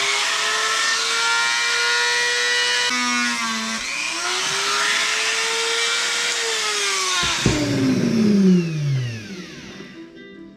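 Small high-speed rotary tool grinding off excess solder on a battery tab: a steady whine with a grinding hiss, the motor speed dipping briefly about three seconds in. It is switched off about seven and a half seconds in and winds down in falling pitch.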